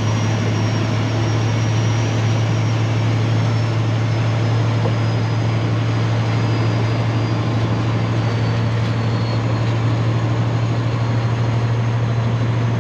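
Peterbilt semi truck running at a steady drone, a constant low engine hum over road and wind noise.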